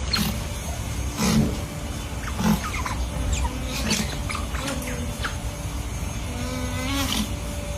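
An animal's short calls recurring every second or so over steady background noise, with a longer wavering call near the end.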